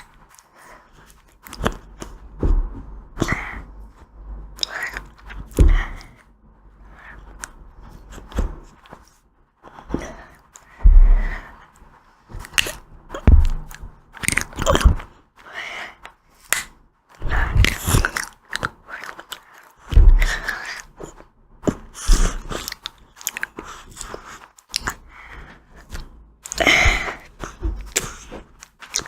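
Close-miked eating of ice cream: bites and chewing with crisp crunching, irregular and a second or two apart.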